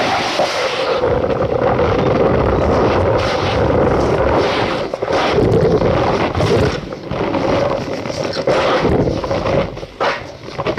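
Cornstarch powder being squeezed and crushed, giving a dense squeaky crunching that keeps on, with short breaks about 5, 7 and 10 seconds in.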